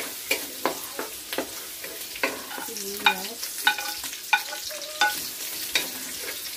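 Garlic and onion sizzling in hot oil in a stainless steel wok, with a wooden spatula stirring and knocking against the pan about twice a second, some knocks leaving a short metallic ring.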